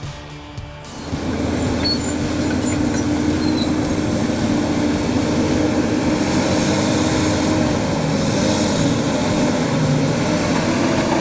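Kenworth K104B truck's diesel engine running steadily under load, a loud even drone with a low hum, starting about a second in after music cuts off.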